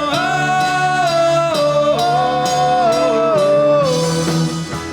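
Live band playing a rock song, with a long held melody note that slides slowly down in pitch.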